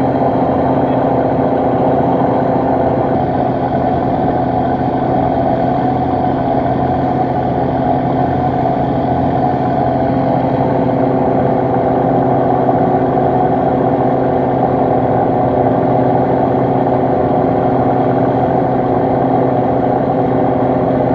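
Fishing boat's engine running steadily, a constant droning hum with no change in speed.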